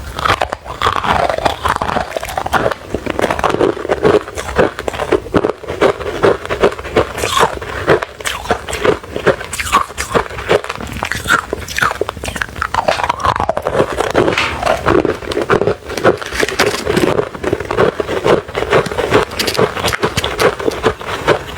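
Close-miked crunching and chewing of refrozen crushed ice: a dense, continuous run of crisp crunches and small cracks as the ice breaks between the teeth.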